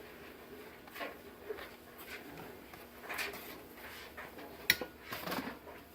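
A few faint clicks and light knocks, with one sharper click near the end.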